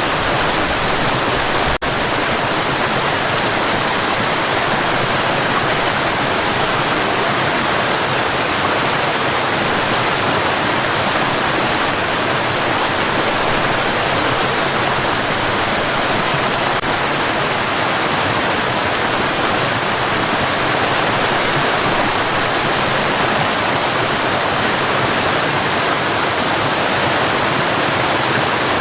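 Steady white noise for lulling a baby to sleep: an even, unchanging hiss with no rhythm or pitch, briefly dipping about two seconds in.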